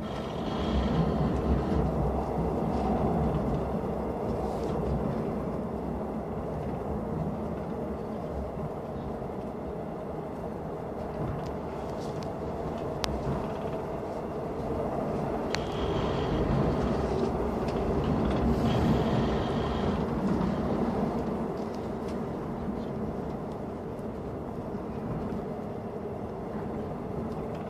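Airport Railroad (AREX) express electric train running at speed through a tunnel: a steady rumble of wheels on rail and running gear, heard from inside the car. It swells louder twice, about a second in and again past the middle, with a few sharp clicks in between.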